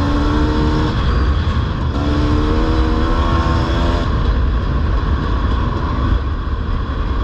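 Dirt bike engine running while riding, its note climbing gently twice, over a heavy low rumble.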